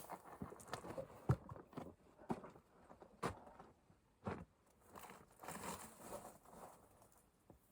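Footsteps crunching and scuffing on loose rock and gravel as hikers climb a steep rocky trail, in irregular steps.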